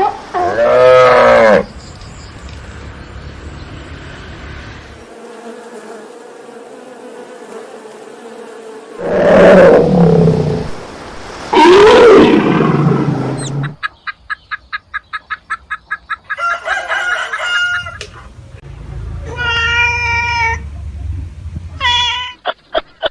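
A series of calls from several different animals in turn: loud pitched calls about a second in and twice more around the middle, then a fast run of short pulses and several shorter calls near the end.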